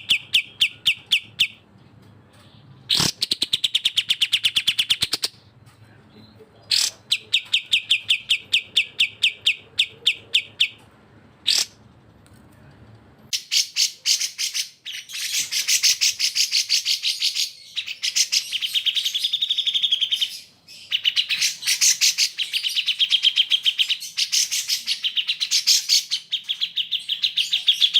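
Recorded bulbul song, the cucak jenggot and kapas tembak of a bird-tutoring track: rapid trains of evenly repeated high notes, several seconds each with short gaps. About halfway through, an edit brings in a busier stretch of fast, loud chattering calls.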